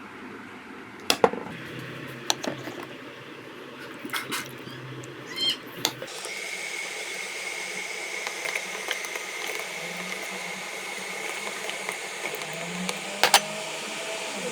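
Electric kettle heating water, with a few sharp knocks and clatters in the first six seconds. From about six seconds in it settles into a steady hiss with a faint high whine.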